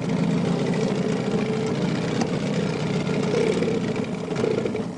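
Small boat's outboard motor running steadily.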